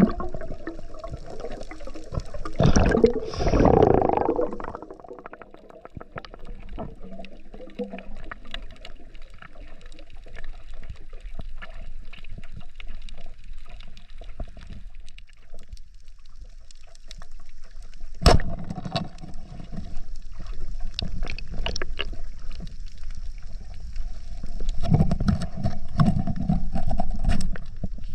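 Water gurgling and sloshing, with a stronger surge about three seconds in, scattered faint crackling clicks throughout, and one sharp click about eighteen seconds in.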